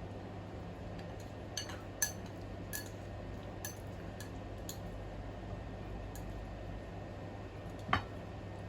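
Metal spoon clinking against crab shell and dish, a handful of sharp separate clinks with the two loudest about two seconds in and near the end, over a steady low hum.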